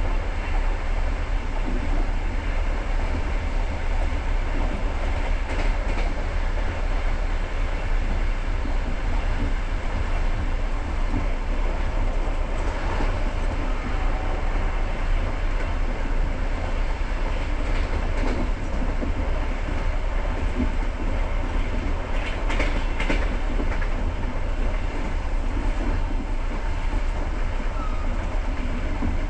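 A passenger train running along the line, heard from inside the coach: a steady, heavy rumble of wheels on rails, with some clatter from the wheels.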